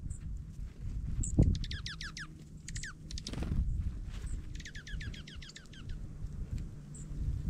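Dark-eyed juncos calling: two quick trills of rapidly repeated downward-sliding notes, with short thin high chips in between. Low bumps and rustling sound underneath.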